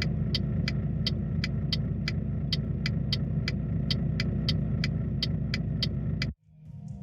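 A truck engine running steadily, with a regular sharp ticking about three times a second over it. Both cut off suddenly near the end.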